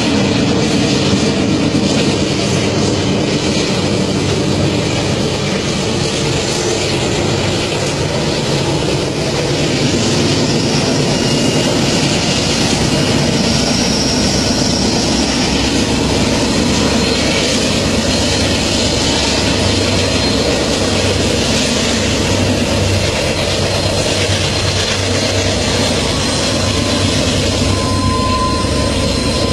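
A long freight train passing close by, its wagons giving a loud, steady rumble, with a thin wheel squeal starting near the end.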